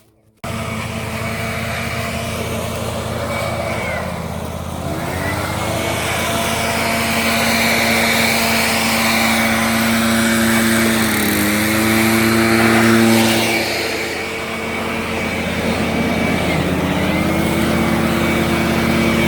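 Engine running steadily at high speed. Its pitch sags and recovers about three times, as under changing load.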